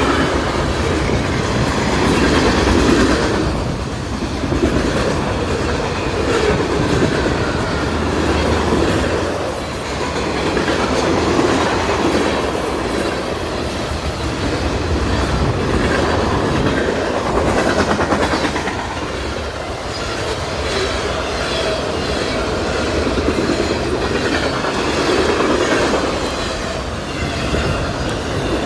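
Union Pacific freight train's cars rolling past at speed, wheels clickety-clacking on the rails in a continuous loud rumble that swells and eases about every two seconds as car after car goes by.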